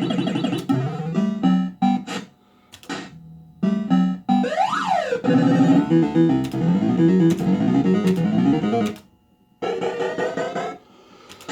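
Bell-Fruit Cash Explosion fruit machine playing its electronic tunes and sound effects during a game: quick runs of synth notes, a tone that sweeps up and back down about five seconds in, with two brief pauses between the jingles.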